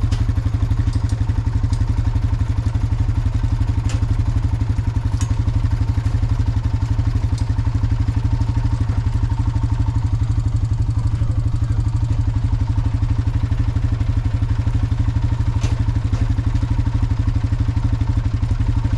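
Honda four-wheeler (ATV) engine idling steadily with an even, fast pulse, with a few faint clicks and knocks over it.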